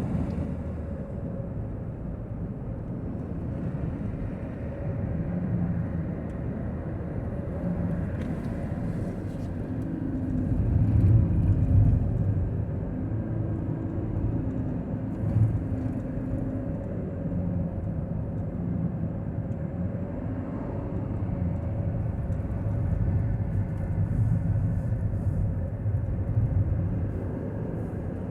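Steady low rumble of a vehicle in motion, swelling and easing a little now and then.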